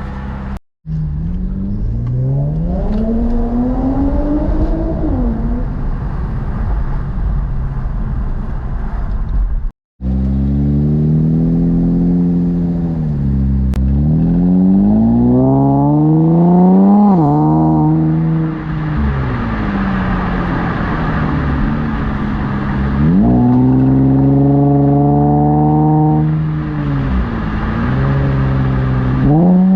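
The Infiniti Q50 Red Sport 400's twin-turbo V6, breathing through a Motordyne exhaust and AMS lower downpipes, accelerating through the gears. Its pitch climbs and falls back at each gear change over several clips, cut off abruptly twice.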